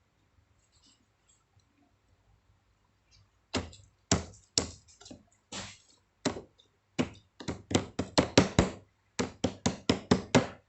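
A run of about twenty sharp knocks on something hard, coming in uneven bursts from a few seconds in.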